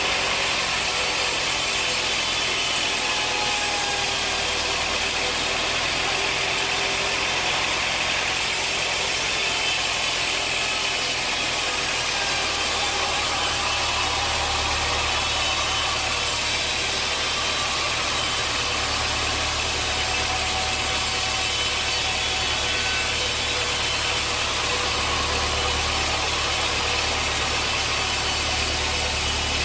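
Sawmill machinery running steadily, a loud even whine and hiss, with a deep low rumble that swells up about halfway through and surges in and out after that.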